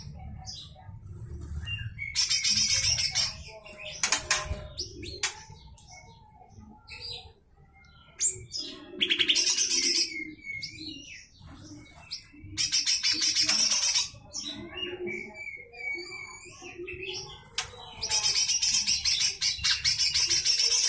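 A cucak hijau mini (small green leafbird) singing its rough, rasping rapid-fire bursts (besetan kasar). There are four loud harsh bursts of about one and a half to three seconds each, with short whistled notes and chips between them.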